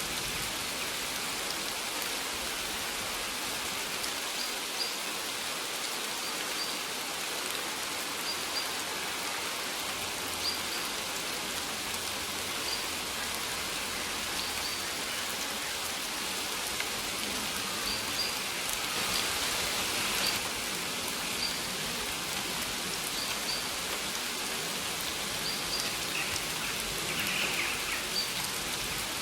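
Steady rain falling, an even hiss, with short faint high bird chirps scattered through it.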